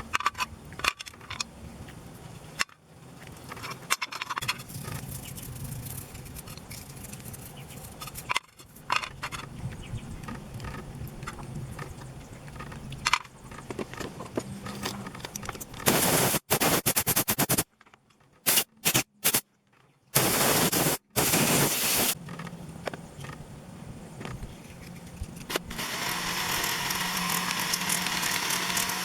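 Hand cleaning of chainsaw parts: scattered scraping and clicking on metal. There are several loud bursts of hissing, two short ones in the middle and a longer steady one near the end.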